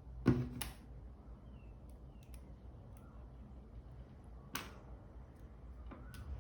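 A few sharp clicks and taps of small tools and parts being handled while working on a G-Shock watch band: two close together just after the start, a single one about four and a half seconds in, and a fainter one near the end.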